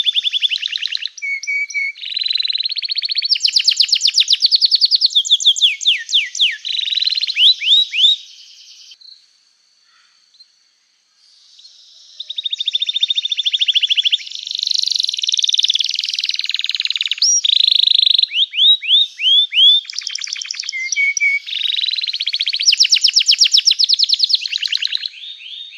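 Domestic canary singing a loud, vigorous song of fast trills and rapid repeated chirping notes, with a break of about three seconds some nine seconds in before the song starts again.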